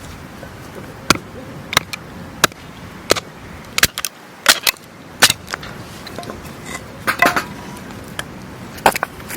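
A series of about a dozen sharp knocks and cracks, irregularly spaced roughly one every half to three-quarters of a second, over a steady low background.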